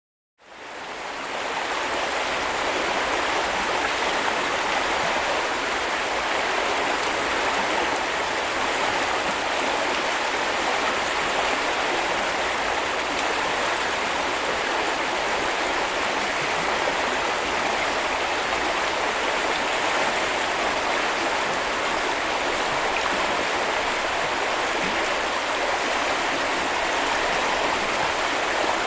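Small river or brook flowing over stones: a steady rushing and babbling that fades in over the first second or two.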